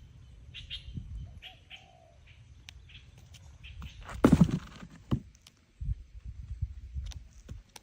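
A bird giving short high chirps, then a brief loud flutter of wings about four seconds in, over low rumbling handling noise.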